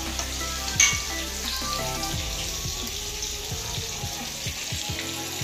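Floured whole fish shallow-frying in hot oil in a frying pan on a gas stove, sizzling steadily. A short knock about a second in. Reggae music plays underneath.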